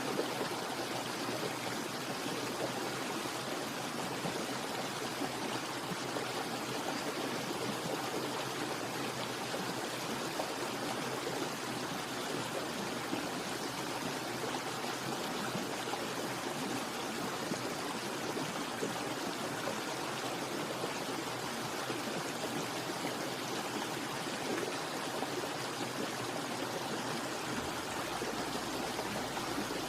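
Steady, even rushing of running water, like a stream.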